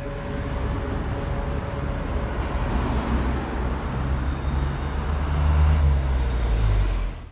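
Motor vehicle running, engine rumble mixed with rushing road and wind noise, growing louder toward the end and then cutting off abruptly.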